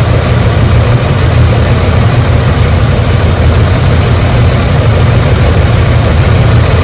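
Jeep Liberty's V6 engine idling steadily with a misfire on cylinder 2, put down to a failing ignition coil.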